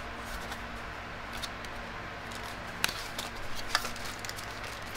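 Light clicks and rustling from a plastic bicycle helmet being handled, over a faint steady hum.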